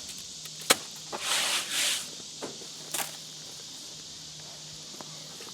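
A sharp knock, two short scuffs about a second later, and another knock near the middle, then a steady faint outdoor hiss.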